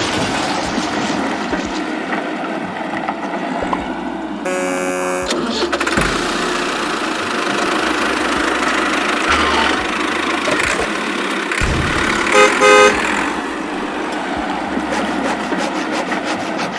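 Cartoon vehicle sound effects: an engine running steadily, with one held horn blast about four and a half seconds in and two short honks around twelve seconds in, the loudest sounds here.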